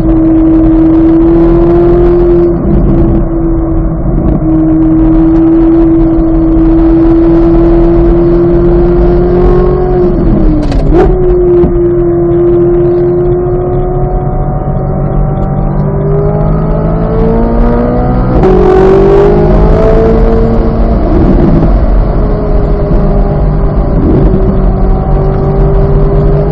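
2023 Chevrolet Corvette Z06's flat-plane-crank V8 running hard on track at a high, steady engine speed. Its pitch dips sharply about ten seconds in, then climbs gradually through the second half.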